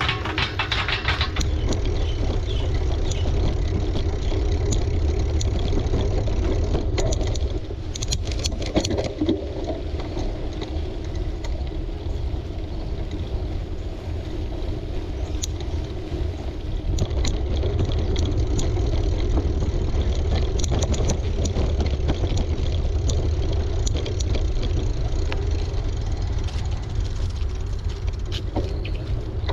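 Steady low rumble of wind on the microphone and tyre noise from a bicycle being ridden, with scattered short clicks.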